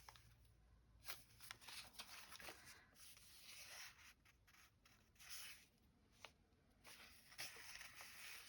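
Faint rustling and light taps of paper being handled and shuffled, with a few short, sharp clicks.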